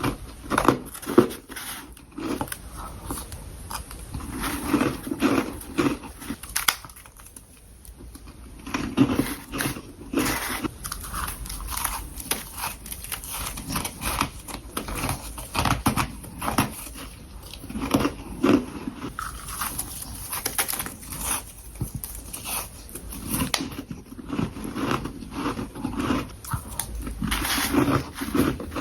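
Close-up crunching and chewing of freezer frost: bite after bite of powdery frost crackling between the teeth, with a brief pause partway through.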